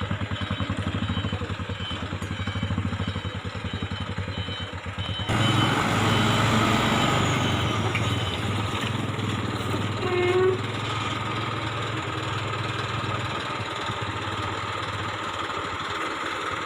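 Motor vehicle engine running with road noise. The sound changes abruptly and grows louder about five seconds in.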